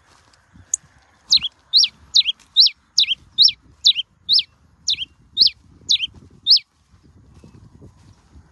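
Cravina (pileated finch) singing: after a high chip, a run of about eleven quick, down-slurred whistled notes, about two a second, that stops near the end.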